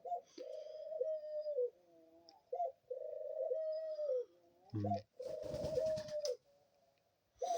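Pet doves cooing: three long, level coos of about a second and a half each, with shorter coos between them.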